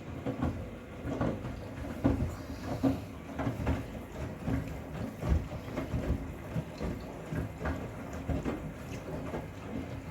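Miele WCR 870 front-loading washing machine drum tumbling wet bath towels on a cotton wash: a steady motor hum under irregular soft thumps as the load drops in the drum.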